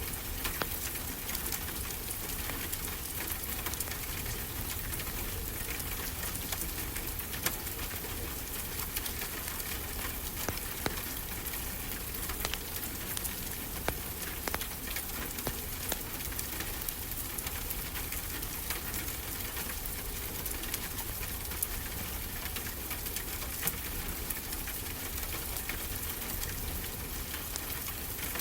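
Wood fire crackling, with frequent sharp pops, over a steady wash of ocean waves.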